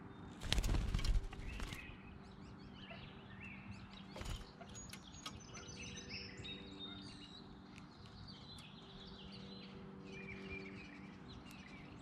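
Songbirds chirping and whistling in many short, varied calls over a faint steady hum, with a loud rustling burst lasting about a second near the start.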